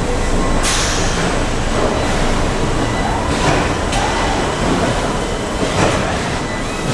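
Car factory production hall: a steady machinery rumble and hiss, broken by a few short sharp hisses and clanks.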